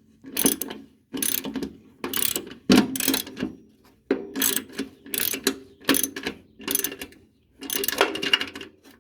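Hand socket ratchet being worked back and forth on a mower deck nut or bolt: repeated short bursts of pawl clicking, a little more than one burst a second, as the fastener is driven in.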